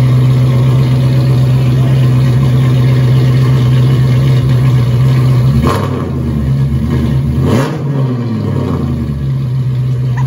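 BMW 540i's V8 engine idling steadily, then its pitch rises and falls a couple of times from about six seconds in as it is revved and drops back toward idle.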